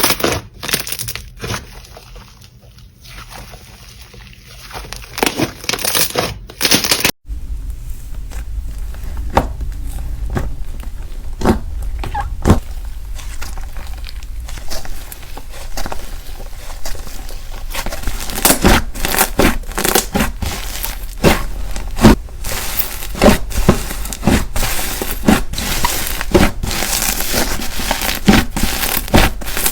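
Slime being squeezed and poked by hand, giving a stream of sharp clicks, pops and crackles. The sound breaks off abruptly about seven seconds in, then resumes denser, with the popping growing busier in the second half.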